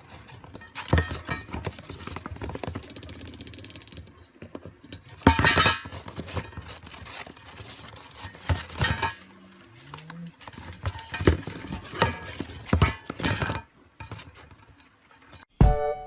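Irregular knocks, taps and clinks, with a few louder short sounds among them.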